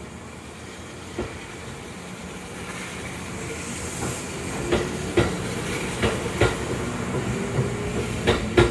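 Kintetsu electric local train pulling out of the station and gathering speed: a steady motor hum with the wheels clacking over rail joints, the clacks coming faster and louder toward the end. A brief high air hiss about four seconds in.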